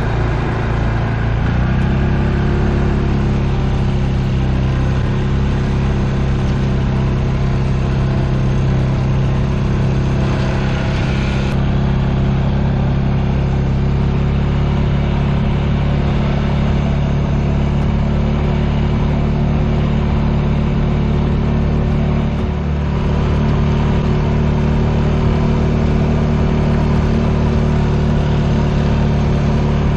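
An engine speeds up over the first couple of seconds, then runs steadily at a constant speed.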